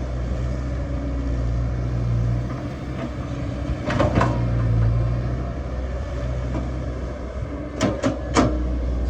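Excavator's diesel engine running steadily, with two short knocks about four seconds in and three more in quick succession near the end.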